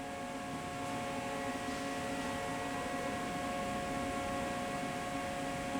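Steady electrical hum of powered-up machinery, several steady tones held over a low background noise, with no change in pitch or level.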